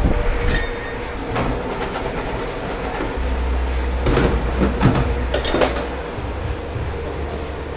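Dishes and metal kitchenware clinking and clattering in a commercial dish pit, several sharp ringing knocks, over a steady low machine rumble that grows about three seconds in.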